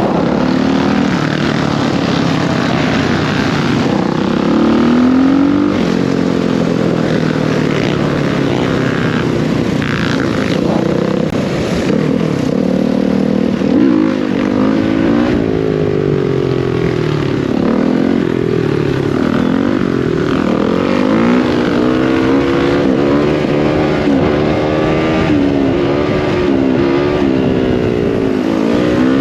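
Dirt bike engine riding through the gears, its pitch climbing and dropping again and again as the throttle opens and closes.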